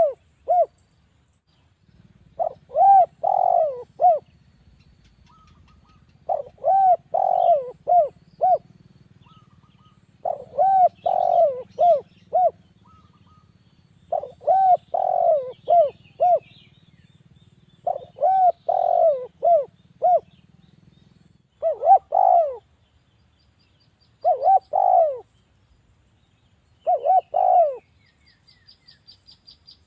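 Spotted dove (derkuku) cooing: a phrase of four or five rounded coos that repeats every three to four seconds, about eight times. A faint, quick high twittering comes in near the end.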